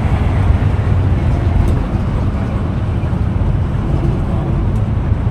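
Steady low vehicle rumble of engine and road noise, with no distinct events standing out.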